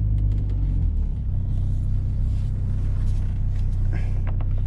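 GMC Sonoma pickup's engine running at a steady low rumble while the truck idles or creeps slowly, with a few faint clicks near the end.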